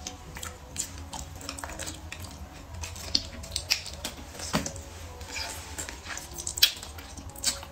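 Close-miked chewing and lip-smacking of braised pork ribs, a series of wet mouth smacks and clicks at irregular intervals, the loudest about two-thirds of the way through.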